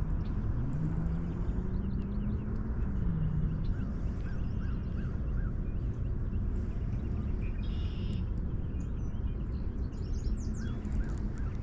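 A bird calling a quick series of four or five short rising-and-falling notes, twice, over a steady low outdoor rumble. A low hum rises and falls in the first few seconds.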